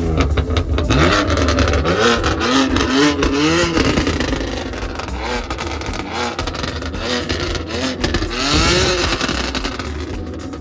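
Performance car engines being revved, with repeated rev blips that rise and fall in pitch, several in the first few seconds and another near the end.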